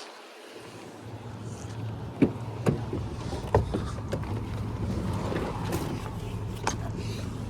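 A steady low mechanical hum that starts about a second in, with a handful of sharp clicks and knocks over it.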